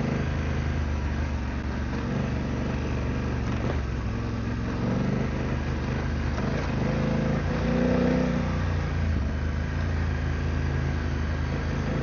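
Adventure motorcycle engine running under way on a dirt trail, its revs rising and falling, with the engine note swelling about five and eight seconds in.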